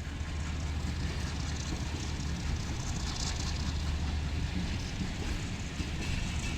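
Awam Express train's diesel locomotive running steadily, a deep low hum under an even wash of noise.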